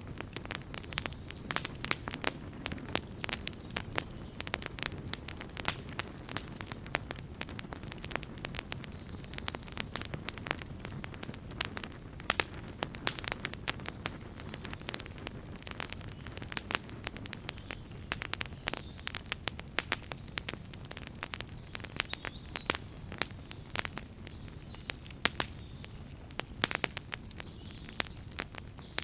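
Wood campfire burning: a steady low rush of flames with dense, irregular crackles and pops of burning wood throughout.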